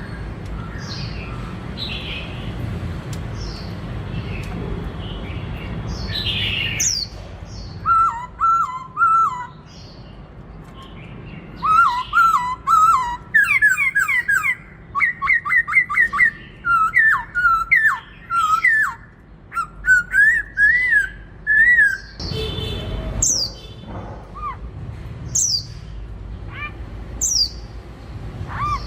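Black-throated laughingthrush singing: loud, repeated whistled phrases that rise and fall, starting about a quarter of the way in and broken by pauses, with shorter high calls near the end. A steady noisy hiss fills the first part before the song begins.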